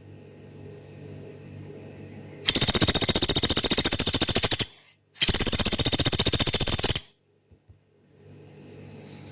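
Pelatuk beras (pygmy woodpecker) giving two long, rough, rapid rattling trills of about two seconds each, the second following the first after a short break. A faint low hum runs in the gaps.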